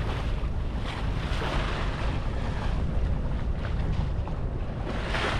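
Wind buffeting the microphone over a steady rush of water along the hull of a sailing ketch moving under sail, with no engine running.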